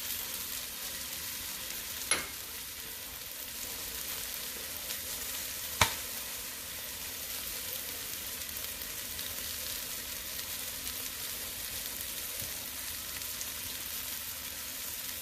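Chicken legs and sautéed vegetables sizzling in a pot with a steady hiss after flour has been sprinkled over them, with two sharp knocks about two and six seconds in.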